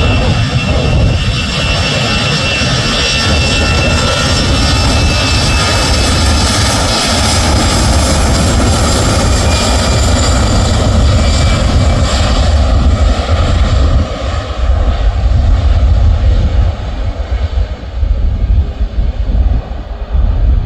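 Loud airliner engine noise: a heavy low rumble with a steady high-pitched whine over it. The whine fades in the second half while the rumble carries on, turning uneven in the last few seconds.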